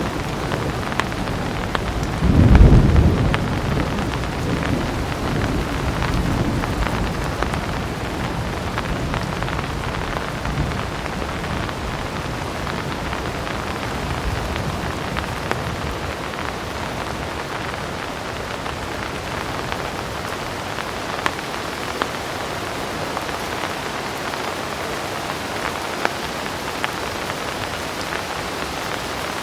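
Heavy rain falling steadily. A low thunder rumble swells about two seconds in and dies away over the next several seconds, leaving only the rain with a few sharp ticks.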